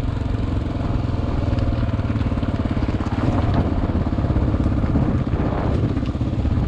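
Single-cylinder four-stroke dual-sport motorcycle engine running steadily as the bike is ridden, its firing pulses coming through as a rapid, even beat.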